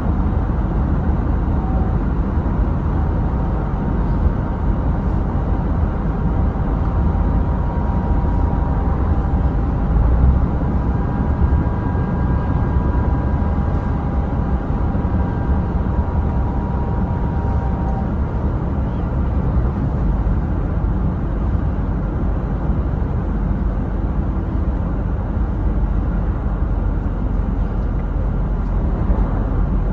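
Scania truck driving at a steady pace: a constant low rumble of engine and road noise, with a faint high whine that stops about eighteen seconds in.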